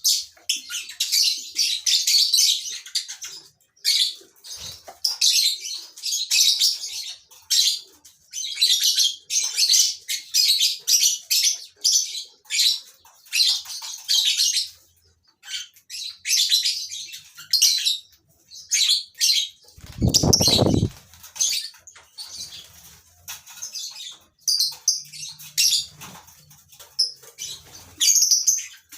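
A colony of lovebirds chirping and chattering in a dense, continuous stream of high-pitched calls. About two-thirds of the way through, a loud low noise lasts about a second.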